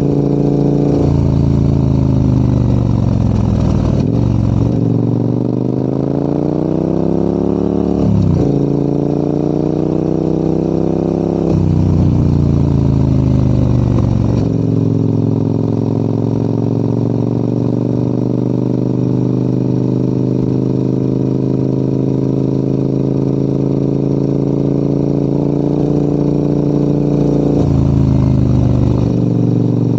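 Adventure motorcycle engine pulling uphill, its pitch falling and climbing with the throttle and dropping suddenly at several gear changes in the first half, then holding a steady pitch through a long stretch before changing again near the end.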